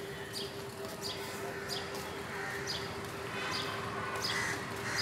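A bird repeating a sharp, falling chirp over and over, roughly every two-thirds of a second, with crows starting to caw near the end.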